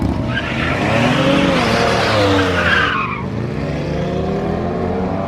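Car doing a burnout at high revs: the engine revs rise and fall while the rear tyres spin and squeal, the squeal loudest in the first three seconds.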